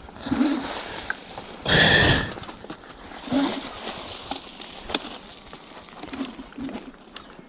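Electric hyperscooter ridden over a rough dirt trail: tyre and ground noise broken by irregular knocks and rattles as it goes over bumps, with one louder rush about two seconds in.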